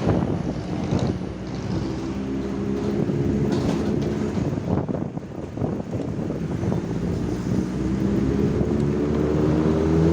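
Small motorcycle engine running under way, with road and wind noise; about eight seconds in its pitch starts to climb as it speeds up.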